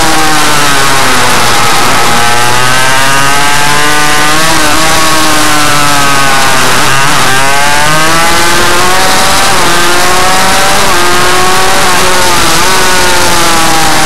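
Small motorcycle engine of a minimotard revving, its pitch climbing and then dropping sharply several times as the throttle opens and closes. Very loud throughout.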